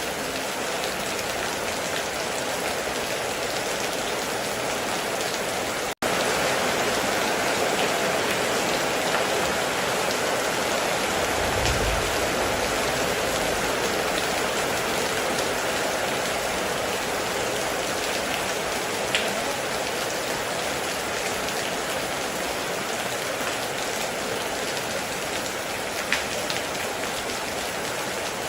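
Heavy rain falling steadily on a metal roof, an even hiss of drops with a few sharper single drips. About six seconds in the sound cuts out for an instant and comes back slightly louder, and a brief low rumble comes about twelve seconds in.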